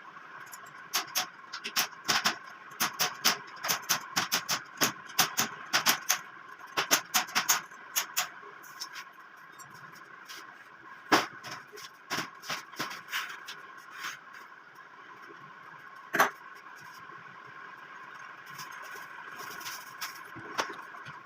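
Wire mesh being fastened to the wooden frame of a parrot cage: sharp taps and clicks in quick runs, dense for the first nine seconds or so and then sparser, over a faint steady hum.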